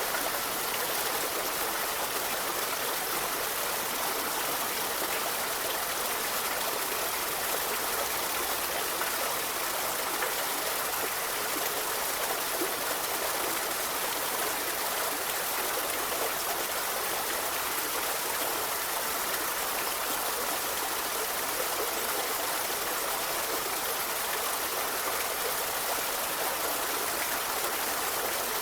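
A river flowing, a steady, even rush of water that does not change.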